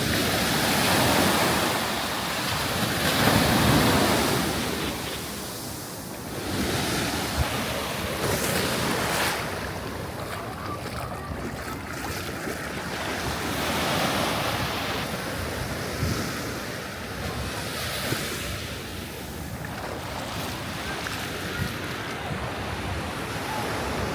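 Surf breaking and washing up a sandy beach, swelling and easing in repeated surges, the loudest a few seconds in, with wind buffeting the microphone.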